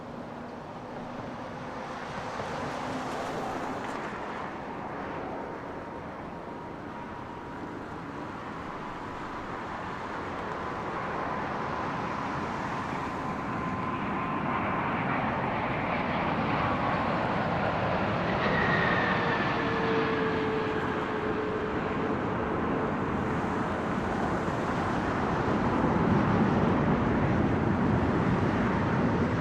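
Airbus A350-1000 on landing, the roar of its Rolls-Royce Trent XWB-97 turbofans growing steadily louder as it comes in. Whining engine tones slide down in pitch as it passes, about two-thirds of the way through.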